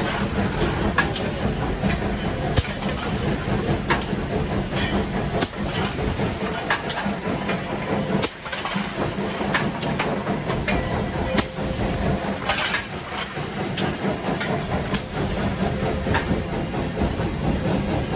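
Cab of the Nevada Northern No. 81, a Baldwin 2-8-0 steam locomotive, on the move: a steady low rumble with irregular sharp clanks and knocks about once a second. A short burst of steam hiss comes about twelve and a half seconds in.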